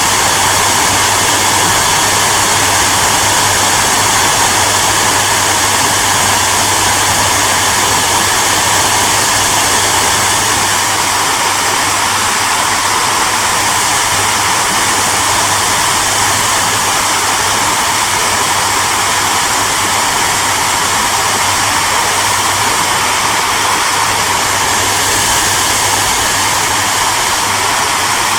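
Hair dryer running steadily: an even blowing hiss over a low motor hum.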